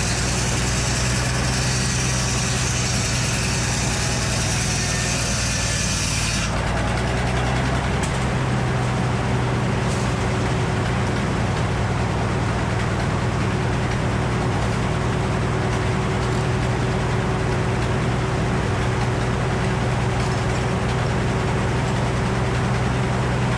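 An engine idling steadily with a low hum. About six seconds in, a high hiss over it cuts off abruptly.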